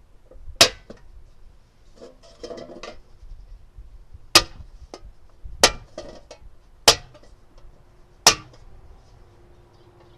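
Five sharp metallic knocks at uneven intervals, each with a brief ring, with a softer clatter of handling between the first two: a tool striking a thin sheet-metal cookie tin as it is worked into a fire pit.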